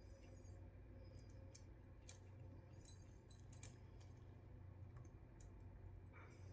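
Near silence: the faint steady low hum of a small cup-spinner motor turning a resin-coated glass, with a few faint, scattered light clicks.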